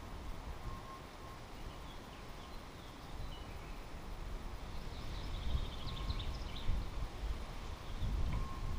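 Outdoor ambience: a small bird calling with short chirps and a brief trill about halfway through, over a low rumble that grows louder near the end.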